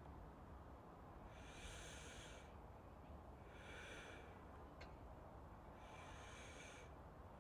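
Slow, soft breathing close to the microphone, three breaths about two seconds apart, over a faint steady background hiss.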